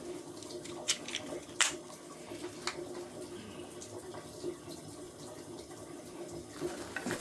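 A few light clicks and taps of small shower-valve parts being handled, over a steady low hum.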